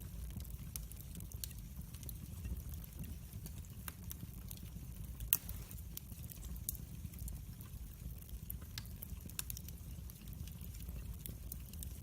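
Wood fire crackling in a fireplace: a steady low rumble of the burning logs with scattered sharp pops and snaps, one louder snap about five seconds in.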